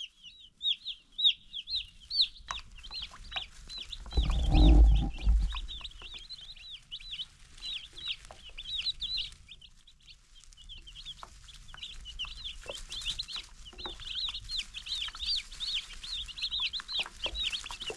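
A brood of young meat chicks peeping continuously, many short high cheeps overlapping, thinning out briefly about ten seconds in. A low rumble comes about four to five seconds in.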